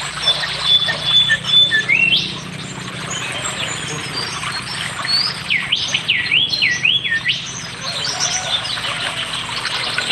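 Songbirds singing and chirping. A held whistle comes near the start, a rising whistle about two seconds in, and a run of about four quick up-and-down looping whistles around six to seven seconds in, all over constant background twittering.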